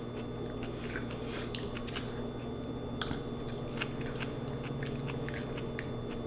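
Close-up wet chewing and mouth smacking while eating lo mein noodles, a scatter of short clicks and smacks, over a steady low hum.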